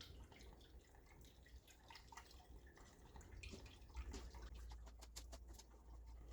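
Motor oil being poured from a bottle into an engine's filler neck, faint dripping and glugging, with a quick run of light clicks about five seconds in.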